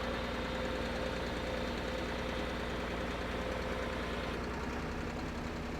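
Drill rig's engine running steadily at constant speed, a continuous drone.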